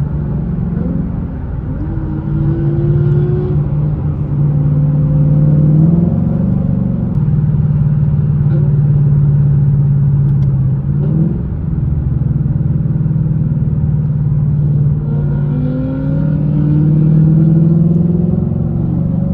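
Ford Mustang GT's 5.0 V8 engine and exhaust running while driving, its pitch rising in several pulls of acceleration, around two to three seconds in, near six and eleven seconds, and again towards the end.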